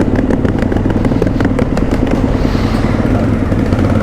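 Dirt bike engine running hard at steady high revs, with a rapid clatter of short knocks over it through roughly the first two seconds.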